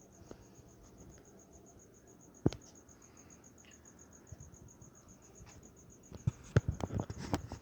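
Cricket chirping steadily in a fast, even high-pitched pulse, with one sharp knock about two and a half seconds in and a run of clicks and knocks near the end.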